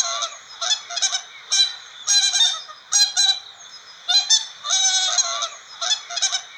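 Swans honking, many short nasal calls repeating and overlapping, as from several birds at once.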